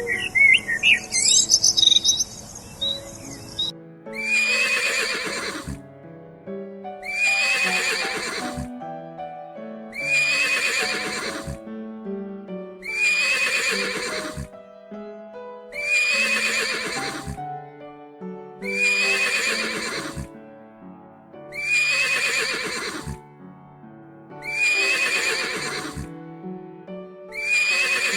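Bird chirps for the first few seconds, then the same loud animal call repeated about every three seconds, nine times, over background music.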